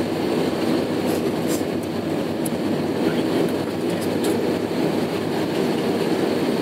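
Cabin noise inside an Airbus A319-132 heard from a seat behind the wing: a steady rumble of its IAE V2500 engines and airframe, with a few faint rattles.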